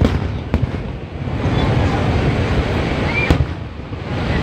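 Aerial fireworks shells bursting: a sharp bang right at the start, a smaller one about half a second in, and another loud bang a little past three seconds in, over a steady background of noise.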